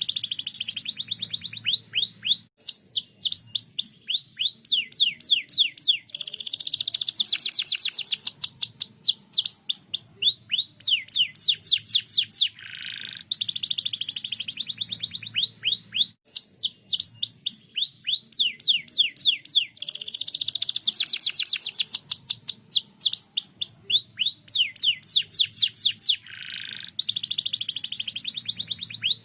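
Domestic canary singing continuously in fast trills of rapid, steeply falling whistled notes, broken by dense buzzy rolls. A similar long phrase comes round again about every thirteen seconds.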